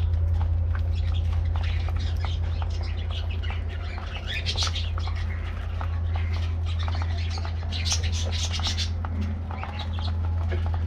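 A flock of budgerigars chattering and chirping, with louder bursts of calls about four and eight seconds in, over a steady low hum.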